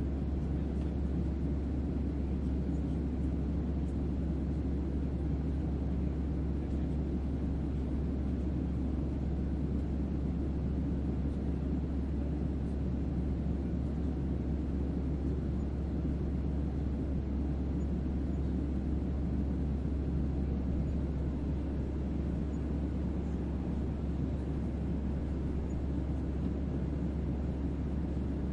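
Steady deep bass hum under a low, even rumbling noise, an ambient spaceship-interior drone made as sleep white noise. It stays the same throughout.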